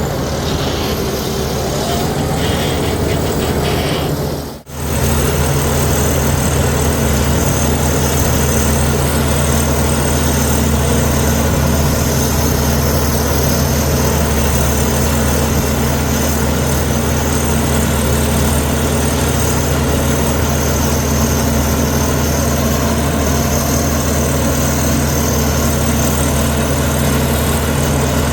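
Heavy diesel engine of earthmoving machinery running steadily, with a brief dropout about four and a half seconds in.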